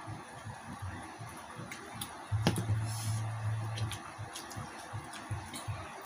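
Close-miked eating sounds: chewing in a steady rhythm of about two to three bites a second, with wet smacking clicks. A low steady hum comes in for about a second and a half midway.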